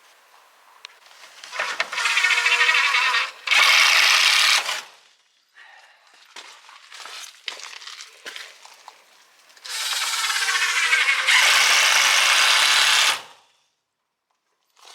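Power drill driving screws into wood, running twice for about three seconds each time and getting louder partway through each run. Small knocks of wood and handling come between the two runs.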